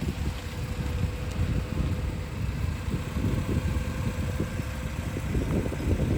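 1961 Austin-Healey Sprite's 948cc A-series four-cylinder engine running steadily with a low, rapidly pulsing exhaust note.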